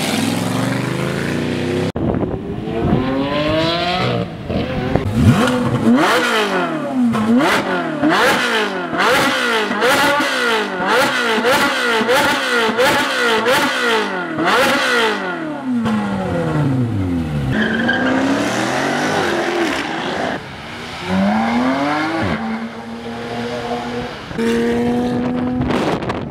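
A high-performance car engine revved hard again and again, its pitch climbing and dropping quickly, with sharp cracks between the revs. It then falls away and pulls up in pitch a few more times, as if accelerating through gear changes.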